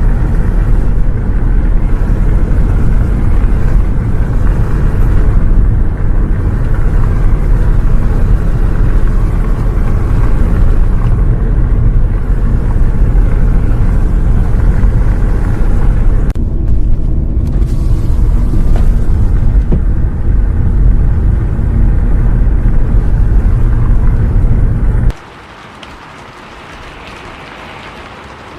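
Heavy, steady low rumble of a bus travelling in the rain, engine and road noise together. About 25 seconds in it cuts off abruptly to a much quieter hiss.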